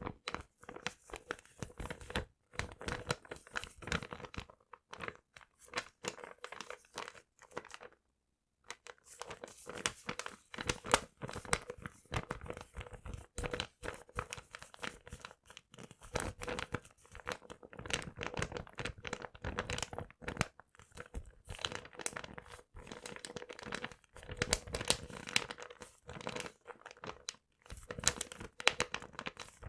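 Paper being crumpled and torn close to the microphone: a dense, irregular run of crackles and rips, with a short pause about eight seconds in. A faint steady hum sits underneath.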